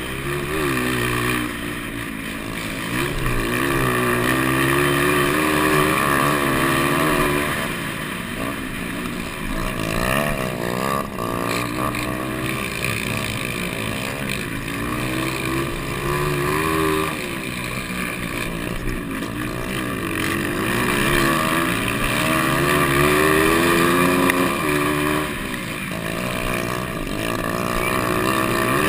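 Several 200cc motocross bikes racing, their engines running together, each note climbing and dropping in pitch as the riders throttle up and back off.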